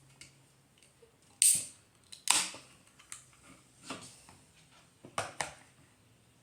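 A bottle of Coke being unscrewed: short sharp hisses of carbonation escaping from the cap, one about a second and a half in, another just after two seconds and a quick double hiss near the end, with small clicks of the cap between.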